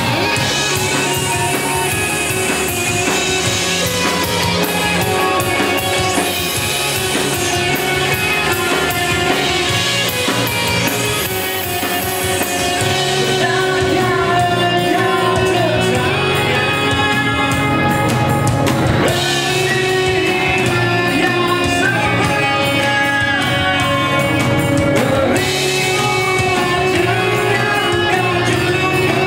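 Rock band playing live: a singer over drums and electric guitars.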